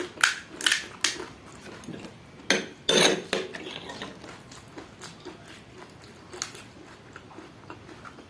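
Spoon clicking and scraping against a steel plate and bowl as pani puri is handled, with a louder crackling stretch about two and a half seconds in, then scattered small taps.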